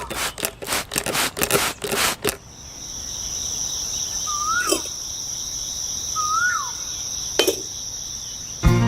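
Steady high-pitched insect chirring, with a few short whistled bird calls that rise and then drop. It is preceded by a couple of seconds of rapid clicking and tapping.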